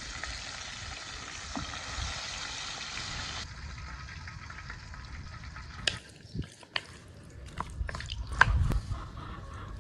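Chicken wings frying in hot oil, a dense steady sizzle that cuts off abruptly about three and a half seconds in. It is followed by a quieter stretch with scattered sharp clicks and knocks.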